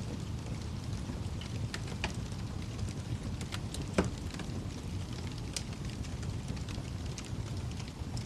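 Wood fire burning in a fireplace: a steady low rumble of the flames with scattered crackles and pops, one sharper pop about four seconds in.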